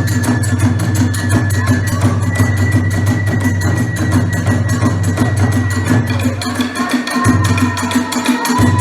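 Kagura hayashi accompaniment: drums and hand cymbals struck in fast, even strokes under a sustained high melody line that glides near the end.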